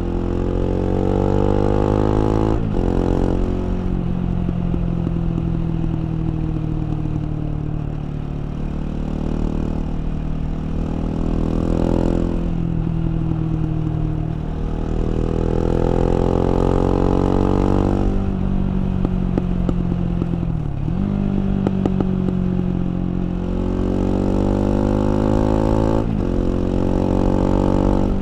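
KTM 690 Duke's single-cylinder LC4 engine being ridden hard. It revs up with its pitch climbing, drops sharply at each gear change, then falls away as the bike slows. Short rapid crackles come through as it slows.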